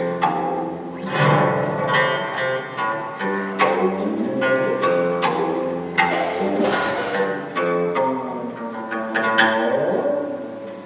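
Live string duet: a guzheng (Chinese zither) plucked with sharp, ringing attacks over held notes from a low bowed string instrument.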